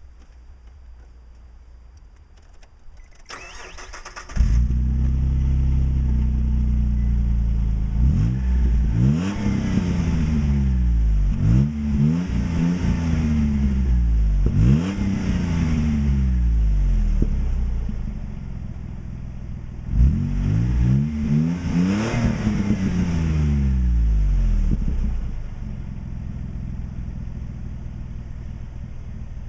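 The 3.3-litre V6 of a 2002 Nissan Xterra, breathing through an aftermarket Thrush glasspack muffler, cranks briefly and catches about four seconds in, then idles. It is blipped through a run of quick revs, rests, revs again in a second series, and settles to a steady idle near the end.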